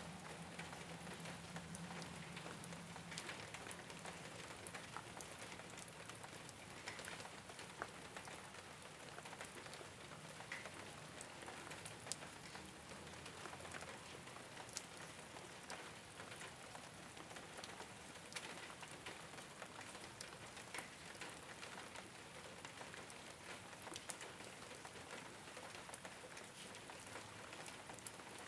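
Steady rain falling on a rooftop, a continuous patter with many separate drops ticking sharply on the surface.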